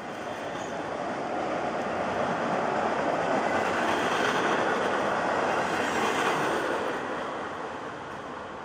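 Freight train passing on the rails: a steady noise of wheels and cars that grows louder to a peak about halfway through, then fades toward the end.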